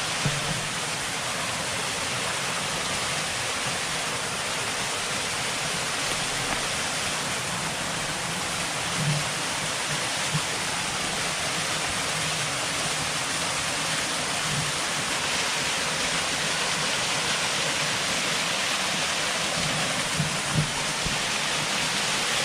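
Waterfall rushing steadily close by, with a few brief low thumps.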